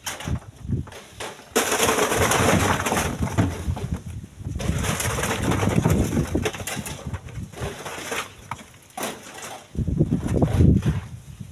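Split stones being loaded by hand onto a truck, clattering and scraping, with scattered sharp knocks and two longer stretches of rattling noise.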